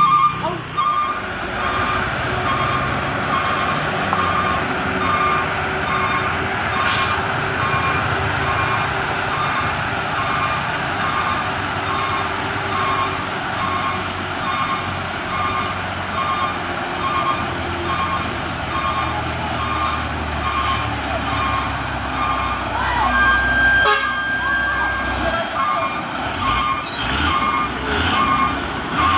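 Truck reversing alarm beeping about twice a second over a truck engine running. A short steady higher tone, like a horn, sounds about three-quarters of the way through.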